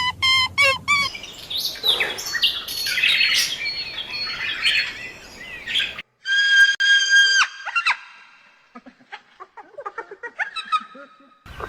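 Bird calls in short edited clips: quick repeated calls in the first second, then busy chirping, a long steady call after a cut about halfway through, and faint scattered chirps.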